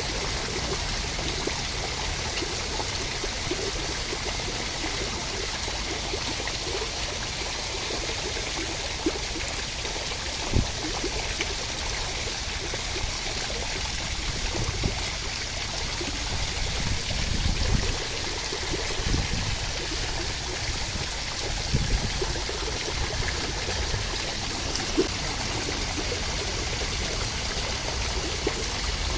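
Steady rain: an even hiss of falling water, with a few louder, short low knocks of drops scattered through it.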